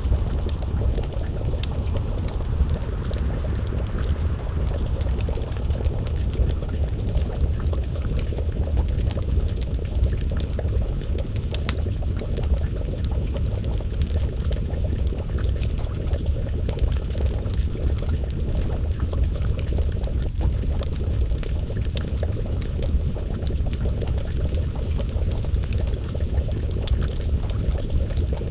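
Wood fire crackling with many small sharp pops over a steady low rumble, with a pot of stew simmering.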